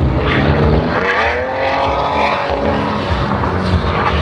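Ford Mustang's engine revving hard: its pitch climbs about half a second in, holds high, then drops near the end.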